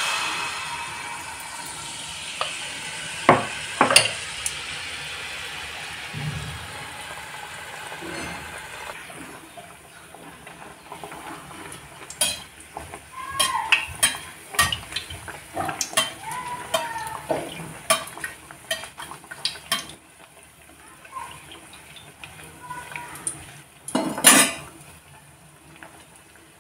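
Malpua batter sizzling as it deep-fries in hot oil in a kadhai. The sizzle starts loud the moment the ladleful hits the oil and dies down after about ten seconds to a softer frying. Scattered clinks and knocks of a slotted metal spoon against the pan run through it.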